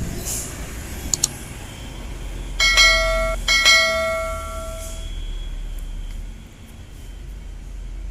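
A vehicle horn sounds twice, a short blast and then a longer one, about three seconds in, over a steady low engine rumble.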